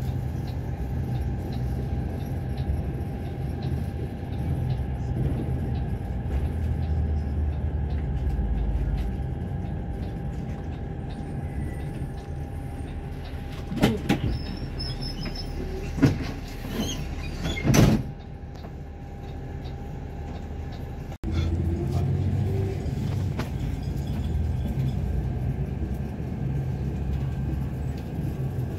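Steady low engine rumble of a large vehicle, with three loud knocks a little past the middle and an abrupt change in the sound about three-quarters of the way through.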